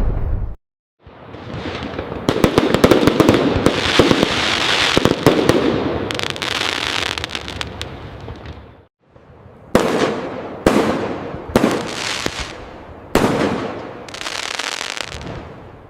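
Fireworks display: a long stretch of dense crackling, then a run of sharp aerial bursts about once a second, each dying away. The sound drops out to silence twice, briefly, near the start and after the crackling.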